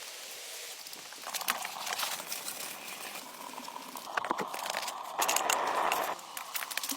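Dry leaves and twigs rustling and crackling, with irregular sharp snaps and clicks and a louder, denser rustle about five seconds in.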